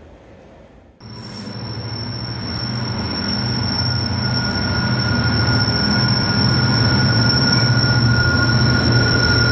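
Container freight train, hauled by a Class 66/7 diesel-electric locomotive, rolling past close by. Its wagons give a deep rumble with a steady high-pitched wheel squeal, starting abruptly about a second in and growing louder over the next few seconds.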